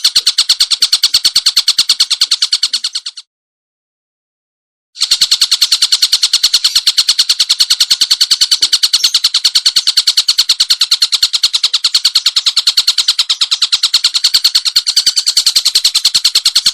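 A songbird recording of a rapid, evenly repeated high-pitched call, several notes a second. It fades out about three seconds in, breaks off into silence, then a similar fast pulsing song starts again about five seconds in.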